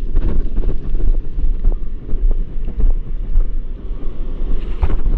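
Wind buffeting the microphone: a loud, gusting low rumble, with a few faint knocks and a sharper knock near the end.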